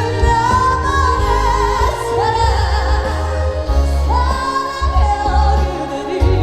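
A woman singing a trot song live over amplified backing music with a heavy pulsing bass.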